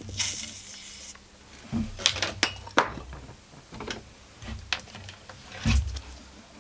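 Metal hand tools working on a chainsaw: a short scrape about a second long, then a string of sharp metallic clicks and knocks at uneven intervals.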